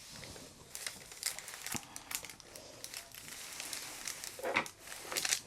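Paper rustling and crinkling as sheets are handled, with scattered small clicks and taps.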